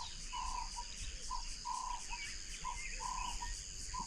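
Bush ambience: insects keep up a steady high buzz while a bird repeats a low two-note call, a short note then a longer one, about every second and a half, with faint chirps from other birds.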